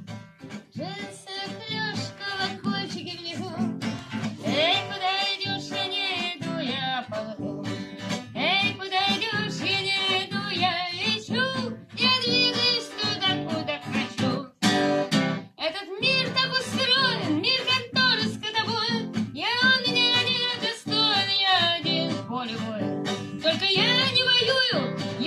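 Live acoustic guitar playing with a wavering lead melody over it: the instrumental intro of a song.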